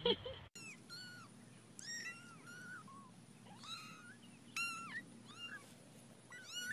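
Small kittens mewing: a string of short, thin, high mews, one after another with brief gaps. It opens with the tail of a loud marmot call, cut off in the first half-second.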